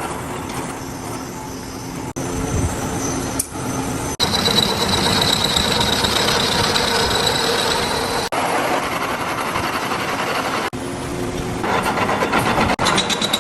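Factory machining noise from crankshaft manufacture, a run of short shots, each a different machine sound, that change abruptly several times. From about four to eight seconds in, a steady high whine runs over the machine noise.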